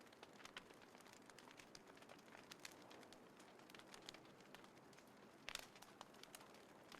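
Wood fire crackling in a small folding fire pit: faint, irregular snaps and pops, with a short cluster of louder pops about five and a half seconds in.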